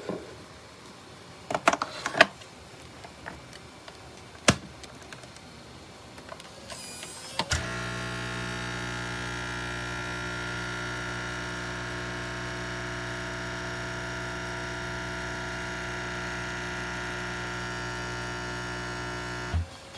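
Nescafé Dolce Gusto Genio 2 pod coffee machine: a few clicks and knocks, then its pump buzzes steadily as it pushes water through, starting about seven seconds in and cutting off abruptly near the end.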